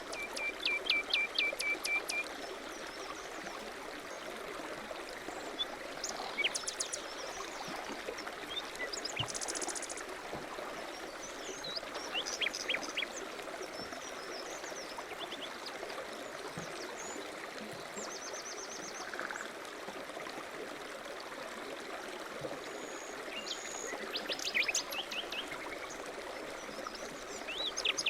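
Several songbirds chirping and singing, with short trills and quick runs of high notes, loudest near the start and again near the end, over a steady even hiss.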